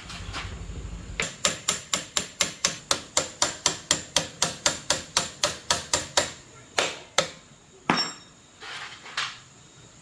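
Hammer striking in a quick, even rhythm of about four blows a second for some five seconds, then a few slower, spaced blows, the last ones softer.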